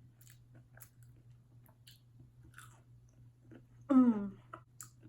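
A person chewing crispy fried cheesy tots close to the microphone: soft, irregular small crunches and mouth clicks. About four seconds in comes a brief voiced sound that falls in pitch.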